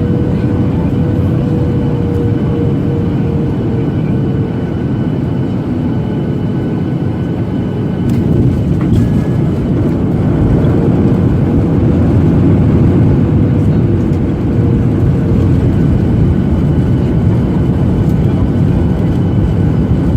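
Steady roar of engine and airflow noise heard inside the cabin of a Boeing 737-800 with CFM56-7B engines, a faint wavering hum running through it, swelling slightly in loudness about halfway through.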